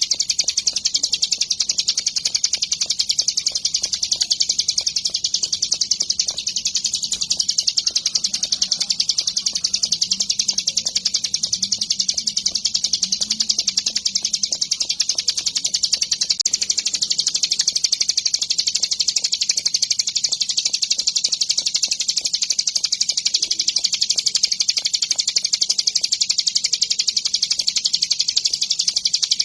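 Ciblek gunung, a prinia, singing a high, rapid, unbroken trill of fast ticking notes that does not pause.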